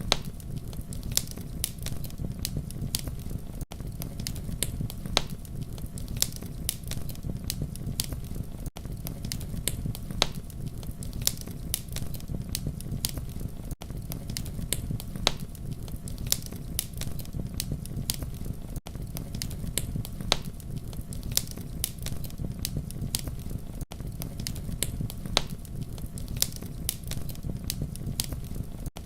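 Campfire crackling and popping over a steady low rumble of flames, with many sharp snaps scattered throughout. A brief drop-out about every five seconds.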